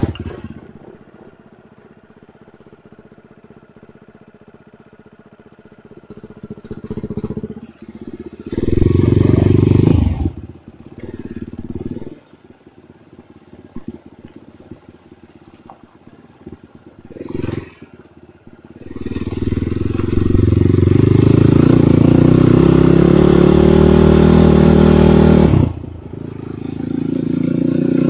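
Enduro dirt bike engine: it falls back to a low, quiet running at the start, gives short bursts of throttle a few times, then from about two-thirds of the way in runs loud under throttle with its pitch rising and falling, easing off briefly near the end before picking up again.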